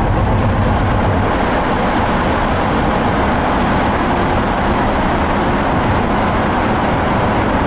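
Steady road noise of a car driving on a freeway, heard from inside the cabin: an even rush of tyres and wind over a low rumble.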